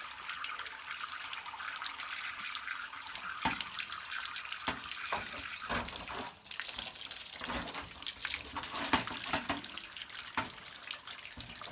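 Water rushing and splashing out of a water heater's drain opening, its drain faucet removed, as the tank is flushed of calcium sediment. Scattered clicks and knocks sound through the steady flow.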